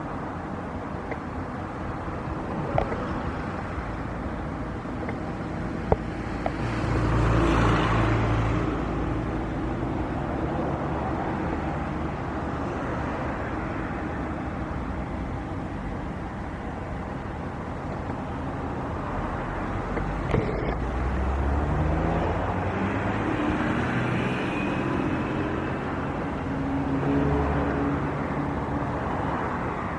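Outdoor ambience with passing vehicle engines: one swells past about seven seconds in, and another runs through changing engine notes from about twenty seconds on.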